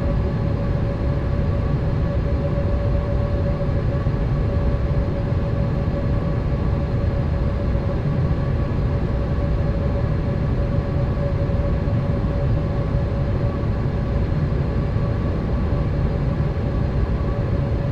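Steady cabin noise of a Boeing 787 airliner in flight: a constant low rumble of airflow and engines with a steady hum over it.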